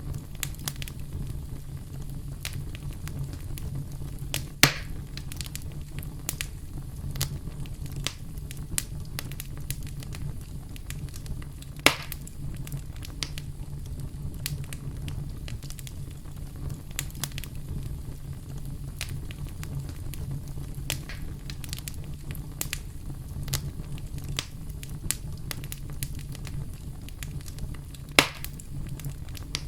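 Campfire crackling: a steady low rumble of burning wood with many small, irregular crackles and three louder pops, about 5, 12 and 28 seconds in.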